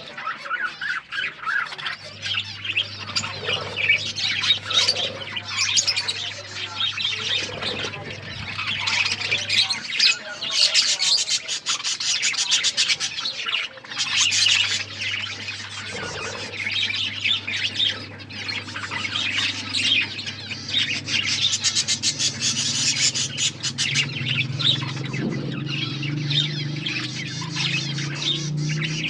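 A flock of budgerigars chattering, with many overlapping chirps and squawks. A steady low hum runs underneath for most of it.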